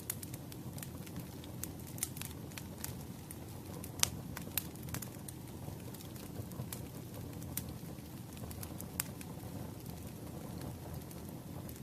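Wood fire burning: a steady low rumble of flames with scattered sharp crackles and pops from the burning logs, the loudest pop about four seconds in.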